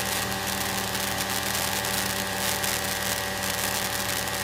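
Steady drone of a single-engine Cirrus piston plane's engine and propeller in cruise, heard inside the cockpit, with an even, unchanging hum.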